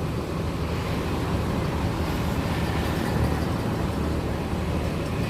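Bus engine idling: a steady low rumble with no change in pitch.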